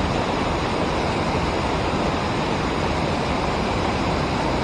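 Steady rushing of river water flowing over and below a dam.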